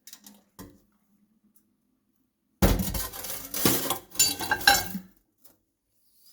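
A plate being handled: crockery clattering and clinking against hard surfaces in a quick run of knocks lasting about two seconds, after a couple of faint clicks.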